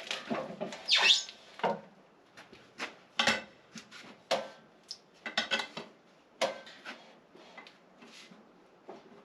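Irregular metallic clanks and knocks with quiet gaps between them, from parts of a Wood-Mizer LT15 sawmill being handled between cuts while the saw is not running.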